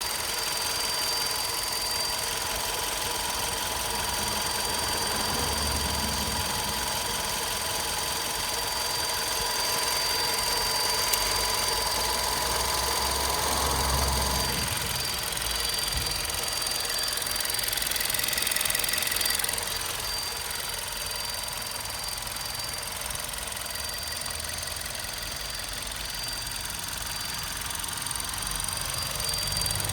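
Volkswagen Golf 6 122 hp TSI petrol engine running at operating temperature, with a steady high-pitched whine over the engine sound; this is the noise that appears when the engine is warm, whose cause the owner does not know.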